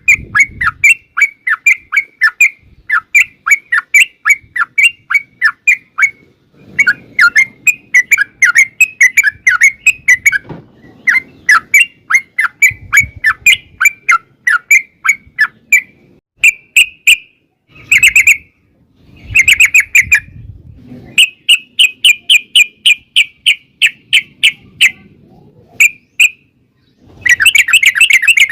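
Yellow-vented bulbul (trucukan) singing long, rapid runs of loud chirping notes, about four to five a second, broken by short pauses.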